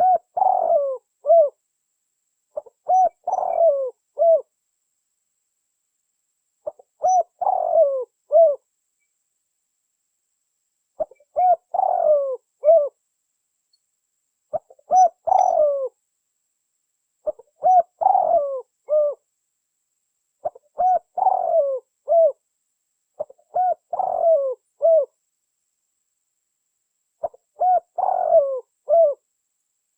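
Spotted dove (tekukur) cooing: a repeated phrase of several throaty coos, sounded about nine times with short silent gaps of a second or two between phrases.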